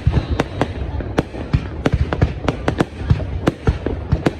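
Fireworks display going off: a rapid, irregular string of sharp bangs, about three or four a second, over a steady low rumble.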